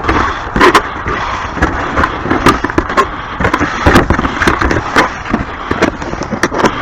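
Irregular clatter of knocks and scrapes: hard objects being moved and handled.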